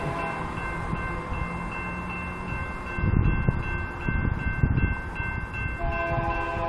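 Locomotive air horn sounding a held chord over the rumble of GE C44-9W diesel locomotives, its lower notes fading midway and returning near the end. Gusts of wind buffet the microphone midway.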